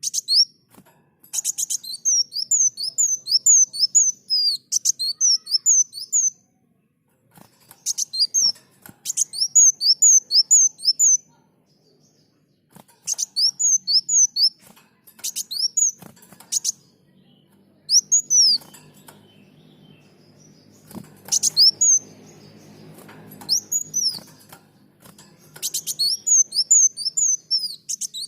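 A sunbird singing vigorously. Its song is a run of bursts of quick, high, sweeping chirps, each burst lasting one to three seconds, with short pauses between them. A faint low hum lies under the song in the second half.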